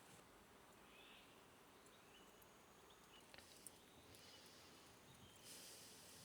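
Near silence: faint forest ambience with a few soft bird chirps.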